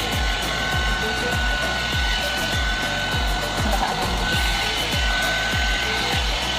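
Hot air brush running: a steady blowing hiss with a thin high fan whine. Background music with a steady bass beat plays underneath.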